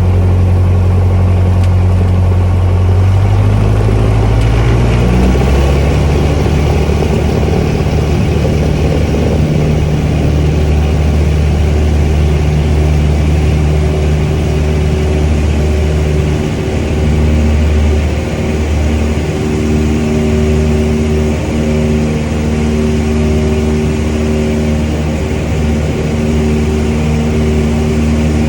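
Cessna 172's piston engine and propeller going up to takeoff power. The pitch steps up about three to five seconds in, then holds steady at full power.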